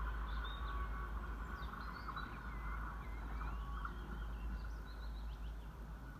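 Songbirds singing in short whistled and chirping phrases, over a steady low rumble.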